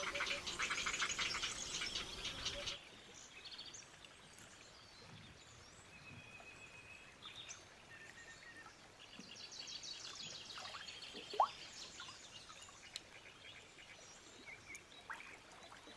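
A loud, rapid pulsing chatter that cuts off abruptly about three seconds in, then quieter natural ambience with scattered wild bird chirps and trills and one sharp rising whistle near the middle.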